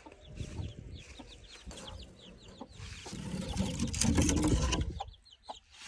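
Chickens clucking, with young chicks cheeping in quick short calls, and a louder stretch of rustling noise about three to five seconds in.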